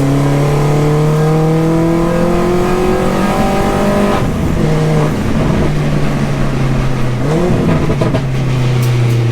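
Engine of a 300 hp Mini R55 Clubman race car, heard from inside the car at speed on track. It revs up steadily for about four seconds, falls away, then picks up again around seven and a half seconds.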